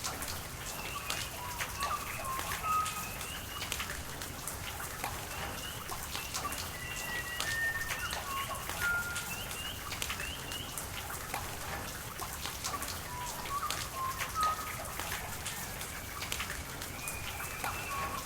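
Steady rain with many close individual drops striking, while birds call throughout in short whistled notes.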